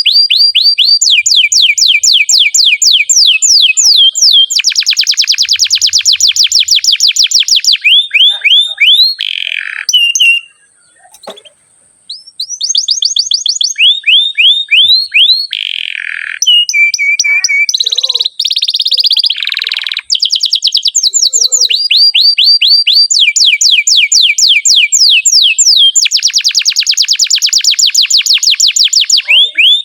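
Domestic canary singing a long song of rapid, evenly repeated trills (rolls), switching from one trill to the next. It breaks off briefly about a third of the way through, then carries on.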